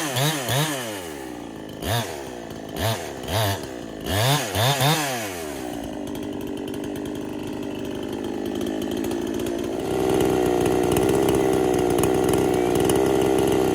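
Freshly built big-bore Husqvarna-clone two-stroke chainsaw revved in a series of quick throttle blips, then settling into a steady run that gets louder about ten seconds in. It is a break-in run on a fresh build whose tune seemed to go leaner and leaner, which the owner suspects may be a possible air leak.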